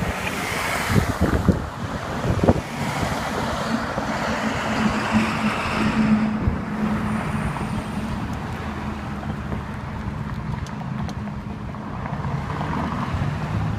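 Fire truck engine and road noise as it drives by, a steady low hum over tyre rumble, with a few thumps early on and wind buffeting the microphone.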